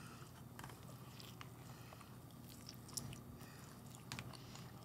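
Faint chewing: a person biting into and chewing a mouthful of food, heard as soft scattered mouth clicks over quiet room tone, a little louder about three seconds in.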